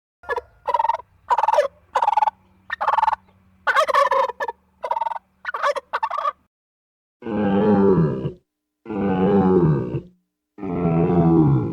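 Turkey calling: a quick run of about ten short calls, then three long, wavering gobbles that fall in pitch.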